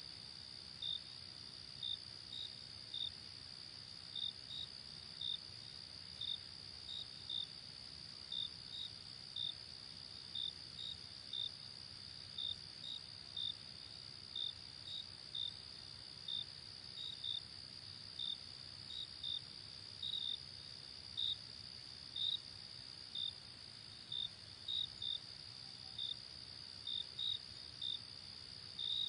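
Crickets chirping at night: a steady high trill with short, separate chirps over it, repeating irregularly about one to two times a second.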